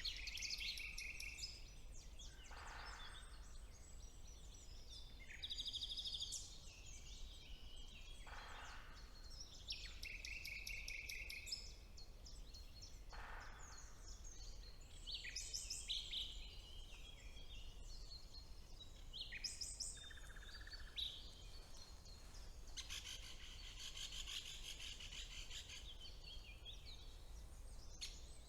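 Spring woodland birdsong, led by a common nightingale's varied song of rapid repeated notes and trills, with phrases following one another almost without a break. Three lower, falling calls come through in the first half, over a faint steady low hum.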